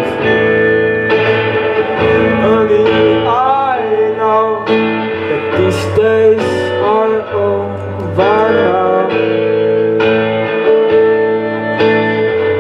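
A man singing a song live to his own guitar, with several sung phrases over steadily ringing guitar chords.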